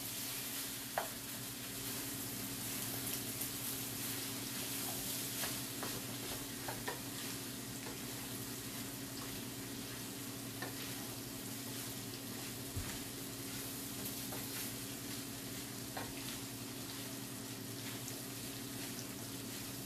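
Hot oil sizzling steadily as fried rice cooks in a wok and a pot of oil bubbles on the gas stove, with a few light taps and scrapes as the rice is stirred with a wooden spatula. A steady low hum runs underneath.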